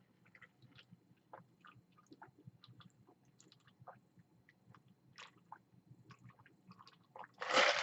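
A person chewing a mouthful of chicken sandwich with the mouth close to the microphone: soft, irregular small clicks and smacks, with a louder noisy burst near the end.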